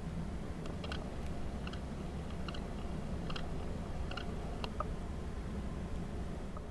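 Wind rumbling on the microphone, with short, scattered chirps from a flock of birds.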